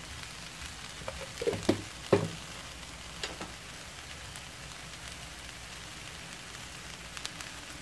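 Diced carrots and charred corn kernels sizzling steadily in butter and oil in a pan, with three sharp knocks around two seconds in and a few fainter ticks later.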